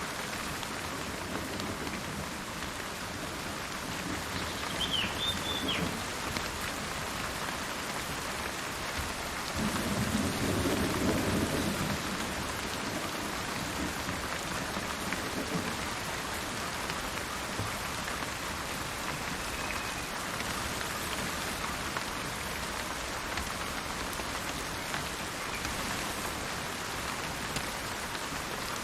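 Steady rain falling, with a low roll of thunder about ten seconds in that lasts a couple of seconds. A bird chirps briefly a few times near five seconds.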